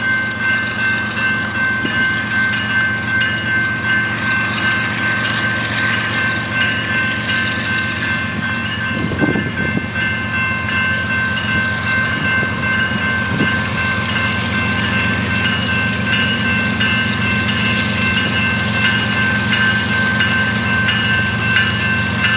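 Unit frac sand freight train rolling past, its wheels clacking in a fast, steady rhythm over the rail joints. A steady high ringing tone runs over it throughout.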